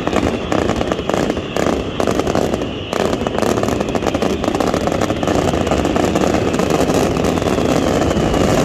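Fireworks display with dense, continuous crackling and popping, over a high whistle that slowly falls in pitch.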